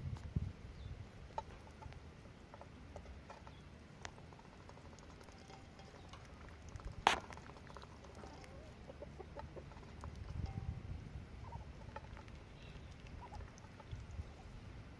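Poultry calling softly in short notes, with light pattering and scattered small clicks. One sharp click about seven seconds in is the loudest sound.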